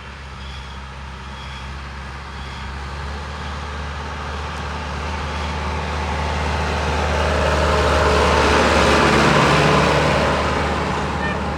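Sonalika tractor's diesel engine running at a steady pitch, growing louder to a peak about nine seconds in and then fading a little, as if passing close by.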